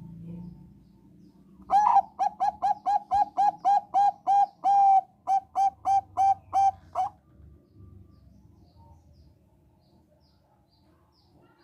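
Zebra dove (a Thai-bred 'perkutut bangkok') singing a fast run of short, clipped cooing notes, about three a second. The run starts about two seconds in, pauses briefly midway and stops after some five seconds.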